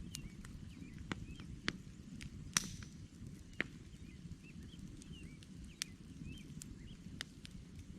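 Campfire of burning logs crackling: a low steady rumble of the flames, with irregular sharp pops and snaps of the wood, the loudest about two and a half seconds in. Faint high bird chirps run behind it.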